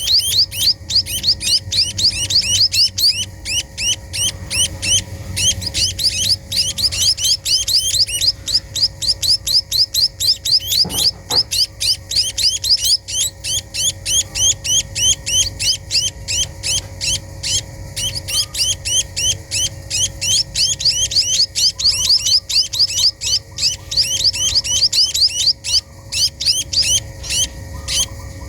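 Pipit teki, a small bird, chirping rapidly and without pause: an even run of short, high chirps that each fall in pitch, several a second.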